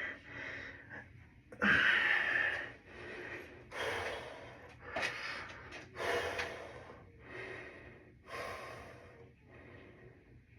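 A person breathing hard, with forceful exhales about one every second or so.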